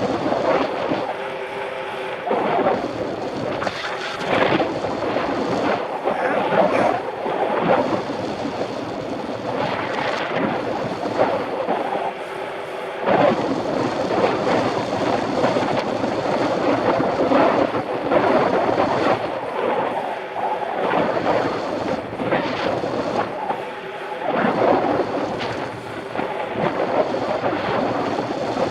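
Wind buffeting the microphone of a Shimano CM-1000 action camera on a moving mountain bike: a steady rushing noise that swells and eases every few seconds.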